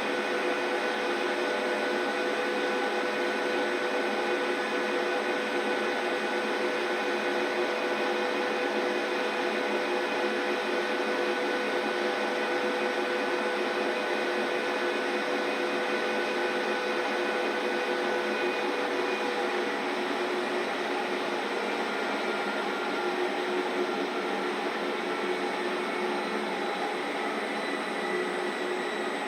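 Large 39 kg commercial washing machine running: a steady machine hiss with several steady whining tones that hold level throughout.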